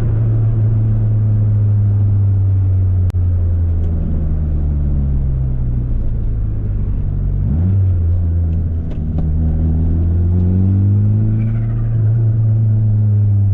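Mitsubishi Eclipse GSX's turbocharged four-cylinder engine running under light load while driving. Its note sinks slowly for several seconds, rises briefly about halfway through, then climbs again before easing off near the end. A single sharp click sounds about three seconds in.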